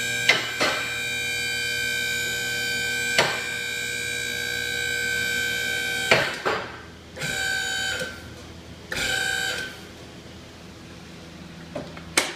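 Car lift motor running with a steady whine, with a few sharp clicks. It cuts off about six seconds in, then runs in two short bursts of about a second each.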